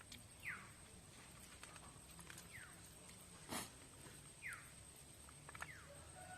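Faint bird calls: a short falling chirp repeated four times, one every second or two, with a single click about halfway.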